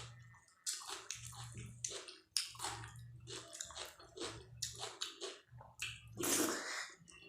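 Close-miked wet chewing, biting and lip smacking of dal, rice and drumstick-pod curry, a quick run of short moist clicks and squelches, with one longer, louder wet sound about six seconds in.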